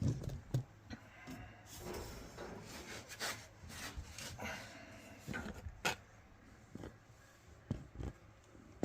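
Hands working inside a dryer cabinet: quiet rubbing and scraping with a few sharp knocks and clicks as the drive belt is fed under the idler pulley and onto the motor.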